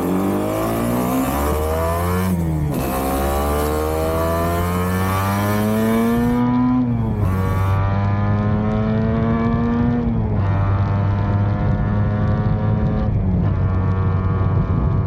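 Yamaha RD250 two-stroke twin accelerating hard, its note climbing in each gear and dropping at four upshifts. Freshly rejetted to 140 main jets with the needles reset, it pulls through the revs with the earlier bogging down gone.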